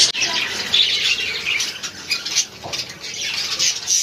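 A crowd of caged budgerigars and cockatiels in an aviary setup, chattering and squawking together in a dense, overlapping chorus of short, high calls.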